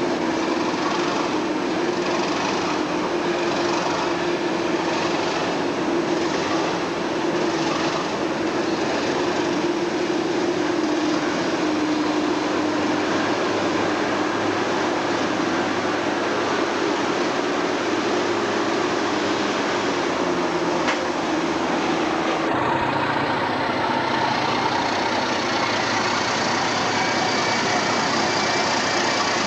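Train running at a station: steady mechanical rail and engine noise, with a regular beat in the first several seconds. About two-thirds of the way through it changes to a lower steady hum.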